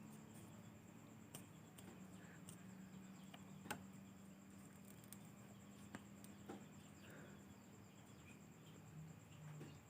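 Near silence: a faint steady hum with scattered soft clicks, the clearest about four seconds in.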